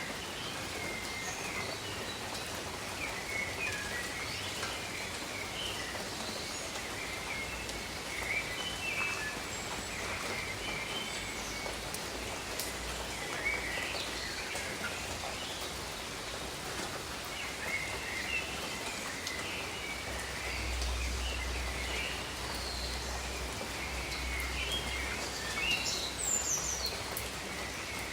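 Steady rain with many small birds chirping in short, scattered calls throughout. A low rumble joins about two-thirds of the way through.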